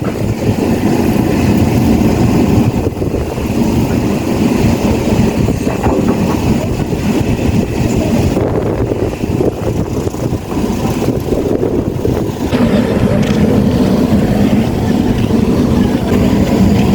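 Excavator's diesel engine running, a steady low rumble with small rises and dips.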